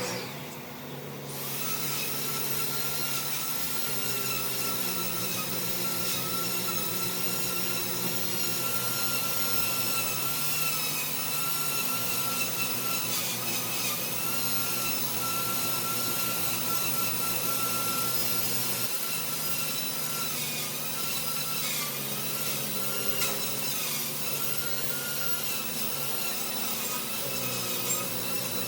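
Handheld power tool abrading wood: a steady motor whine with a dense rasping hiss that starts about a second in, the pitch dipping briefly now and then as the tool is pressed into the wood.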